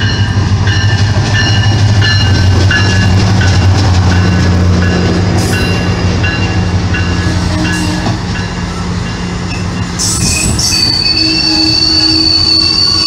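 MARC commuter train passing close at speed. The locomotive's low engine hum dies away over the first few seconds as the bilevel coaches rush by, and about ten seconds in a high, steady wheel squeal sets in.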